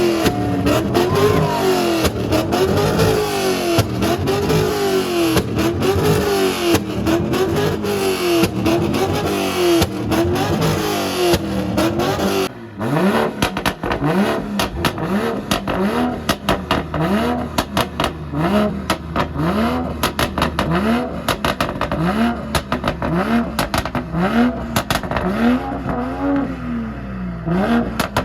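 A car engine revved up and down over and over in a steady rhythm, about once a second, with sharp crackling clicks throughout. About halfway through, the revs settle lower and each one climbs in a quick sharp sweep.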